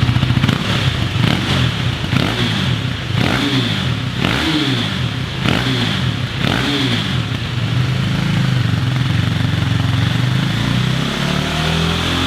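KTM Duke 390's single-cylinder engine running through a Scorpion Serket Taper exhaust, revved in about six quick throttle blips roughly a second apart, then held at a steady, slightly rising note for the last few seconds.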